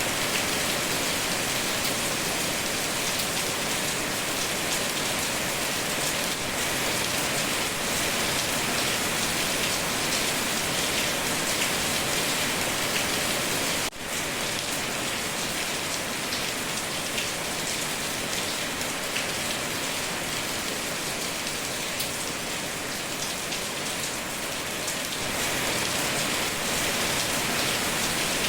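Steady rain falling on a surface, a dense even hiss of many drops, with a brief drop in level about halfway through.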